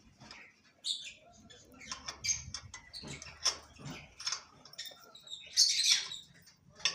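Lovebirds chirping and squeaking in short, scattered high calls.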